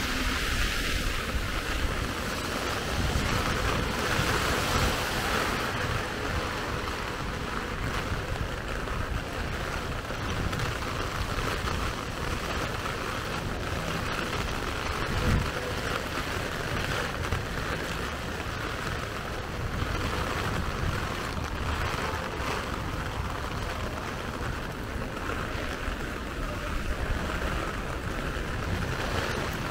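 Heavy rain falling steadily, with wind rumbling on the microphone. A single sharp knock about halfway through.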